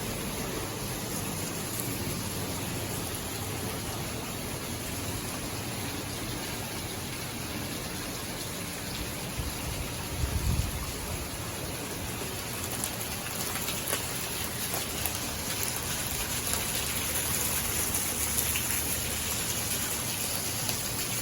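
Steady rain falling and pattering on surfaces, with a brief low rumble about halfway through.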